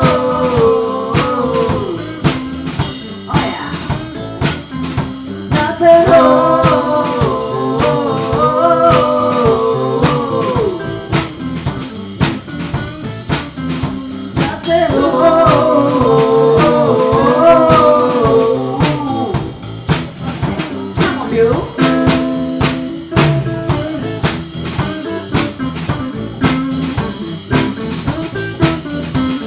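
Live band playing a Chicago blues number: a drum kit keeps the beat under a lead instrument's bending melodic phrases, which come in three stretches.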